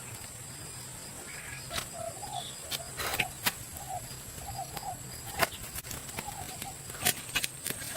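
Forest ambience: a bird repeating short low calls in small groups, over a steady high-pitched insect drone, with scattered sharp clicks.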